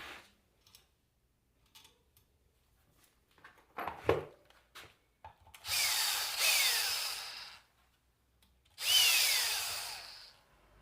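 A power tool, like a drill or driver, runs in two bursts of about two seconds each. Each burst has a whine that falls in pitch as the motor slows. Before the bursts there are a few small knocks, with a louder one about four seconds in.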